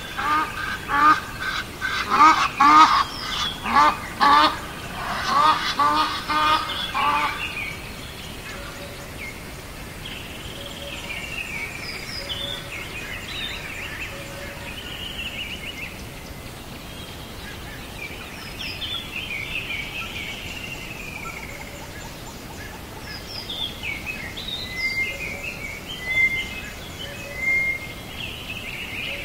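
Birds calling: a fast run of short, repeated calls for about the first seven seconds, then scattered, higher chirps and whistles.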